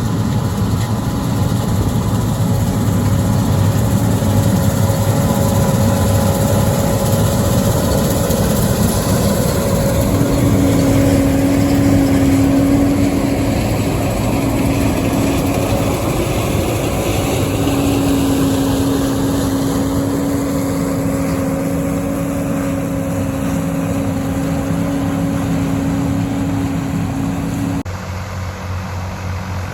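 Combine harvester running steadily while cutting soybeans: a constant engine and machinery drone with steady hum tones. A faint whine rises in pitch in the middle, and the sound drops abruptly to a quieter level near the end.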